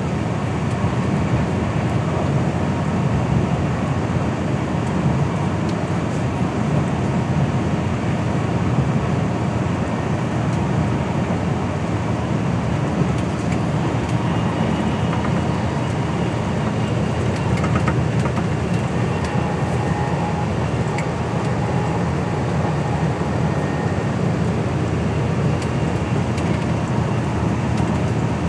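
Steady rumble of a passenger train running at speed, heard inside the carriage, with a faint high whine coming in about halfway through.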